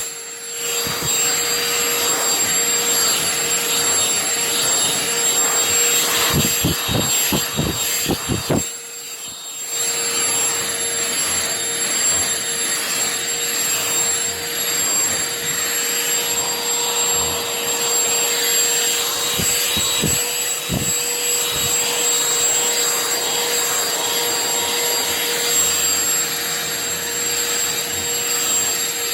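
Shark CH950UKT 80 W handheld cordless vacuum cleaner running steadily on a sofa cushion, a high motor whine over a rushing air sound. A few low knocks come around six to eight seconds in and again near twenty seconds, with a brief dip in the sound around nine seconds in.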